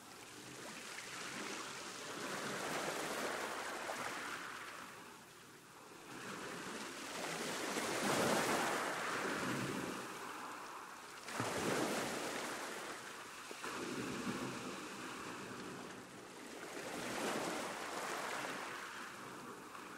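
Sea waves breaking and washing up a beach, coming in as surges every few seconds that swell and then fall away, with a sharper break about eleven seconds in.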